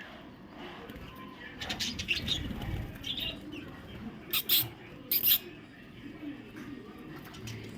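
Lovebirds chirping and calling, with two loud, shrill calls about four and five seconds in.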